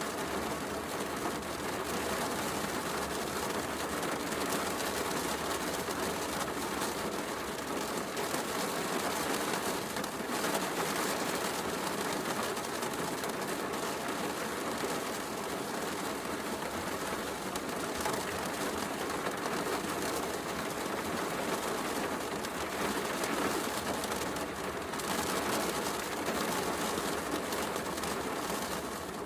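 Heavy rain falling steadily, mixed with the soft crackle of a wood fire in a fireplace.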